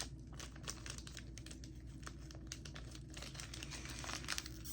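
Snack packaging crinkling as it is handled and opened: a steady run of small crackles.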